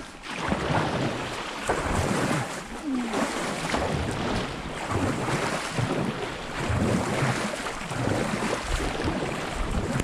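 Kayak paddles splashing and churning the water as the boat is driven forward hard, with wind noise on the microphone.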